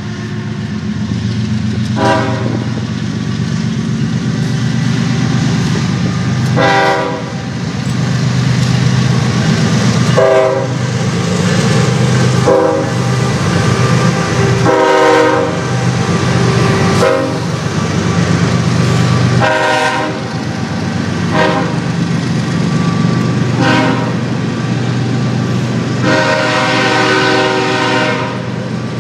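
CSX freight train passing close by: the diesel locomotive's engine drones low and the loaded coal hopper cars rumble and clack over the rails. Short horn blasts sound about ten times at uneven spacing, the longest, about two seconds, near the end.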